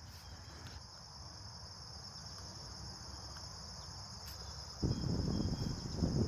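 Steady, high-pitched chorus of insects, crickets or similar, in summer vegetation. About five seconds in, a louder low rushing noise on the microphone sets in over it.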